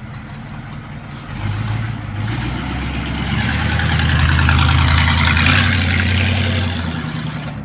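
1967 Pontiac Firebird's 327 cubic inch V8 running. It grows louder from about a second and a half in, is loudest around the middle, and eases off near the end.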